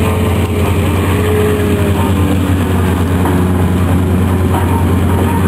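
Propeller aircraft engines droning during an aerobatic display, over a steady low rumble. Faint engine notes drift slightly in pitch.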